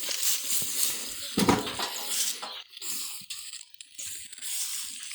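Firewood being picked up and handled: scattered knocks and clinks of wood, with one louder clatter about a second and a half in, over a steady high hiss.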